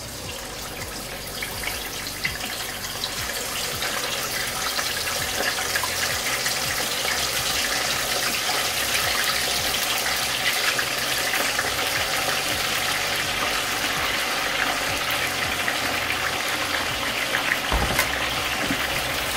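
Chicken wings deep-frying in a pot of hot oil: a steady sizzle full of crackling, building over the first few seconds as the wings go in, then holding.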